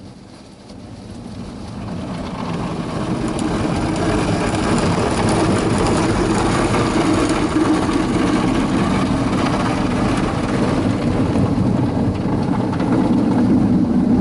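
Automatic car wash machinery working over the car, heard from inside its cabin: a loud, steady rush and rumble of spinning wash brushes and water spray against the body, building over the first few seconds and then holding.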